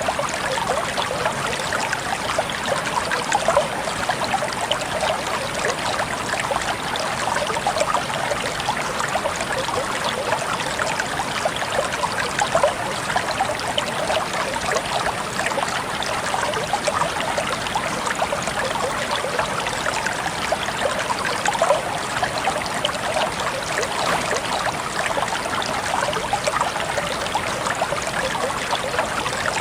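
Water trickling steadily, a dense, even patter of small splashes and droplets.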